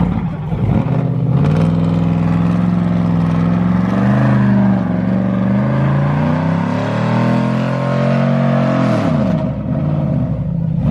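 Truck engine revved hard and held at high revs for several seconds, its pitch wavering and climbing, then dropping back toward idle about nine seconds in.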